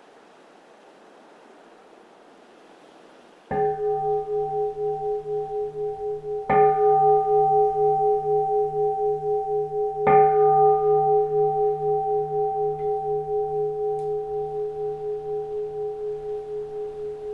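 Keisu, a Zen temple bowl bell, struck three times about three seconds apart, each stroke ringing on for a long time with a slow, wavering pulse. Faint wind before the first stroke.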